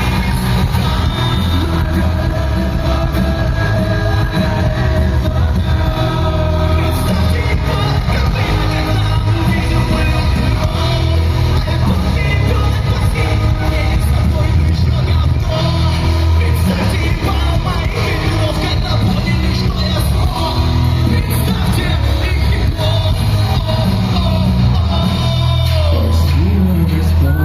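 Live rock concert in a large hall: the band plays loudly, with a heavy, pulsing bass and a singer's voice over it.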